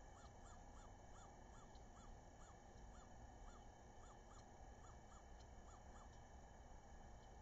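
Faint bird call: a run of about fifteen short, arched whistled notes, two or three a second, which stops about six seconds in, over a steady low hiss.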